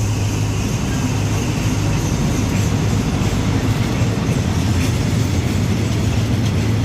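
Freight train rolling past, hauled by an Alstom diesel-electric locomotive: a steady rumble of wheels on rail with a low engine drone underneath and a few faint wheel clicks.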